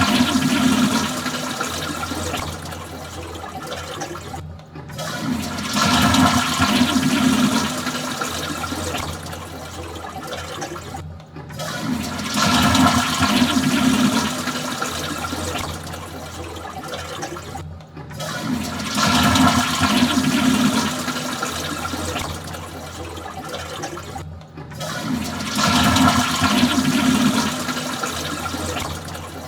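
Toilet flushing over and over: about every six and a half seconds a new flush starts with a loud rush of water that eases off, then stops abruptly before the next one begins.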